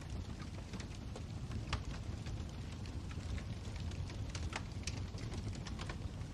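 Wood fire burning in a fireplace: a steady low rumble with irregular crackles and a few louder snaps.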